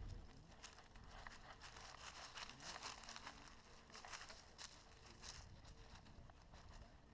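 Faint, irregular crunching and rustling.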